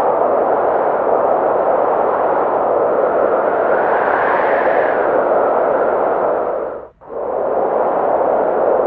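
Steady snowstorm wind, a dense hiss that swells slightly about halfway through. About seven seconds in it dips out almost to silence for a split second, then comes back at full level.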